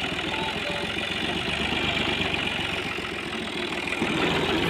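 Fiat tractor's diesel engine running steadily with a fast, even low chug, getting slightly louder near the end.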